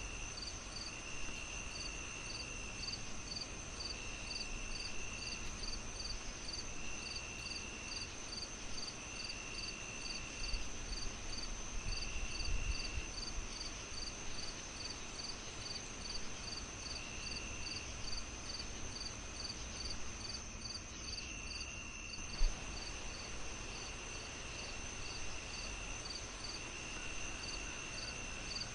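Crickets chirping steadily, about two chirps a second with a second cricket trilling in bursts every couple of seconds, over the low crackle of a wood fire. One sharp pop from the fire stands out about 22 seconds in.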